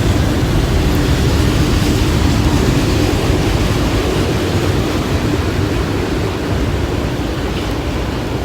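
Freight train cars rolling past, a steady rumble of wheels on rail, mixed with heavy rain coming down.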